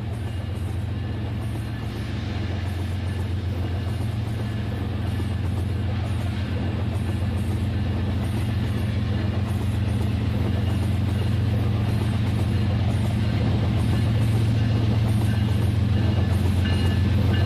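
Battery-powered toy train running on its plastic track, its small motor and gears whirring with a steady hum that grows slowly louder.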